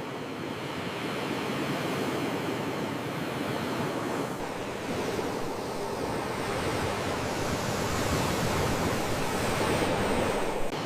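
Ocean waves breaking and washing in: a steady rush of surf that dips briefly about four seconds in, then swells to its loudest near the end.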